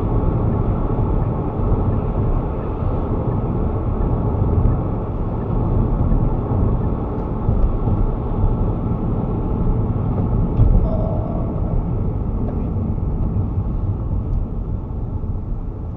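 Steady road and tyre noise with the engine of a moving car, heard inside the cabin, easing off a little near the end as the car slows.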